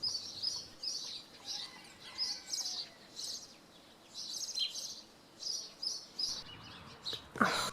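Small songbirds chirping and trilling in quick, repeated phrases. Near the end comes one brief loud rush of noise.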